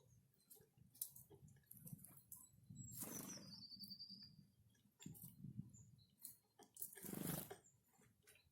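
Small forest birds feeding: faint pecking clicks and rustling, two louder fluttering rushes about three and seven seconds in, and one short high call just after the first rush.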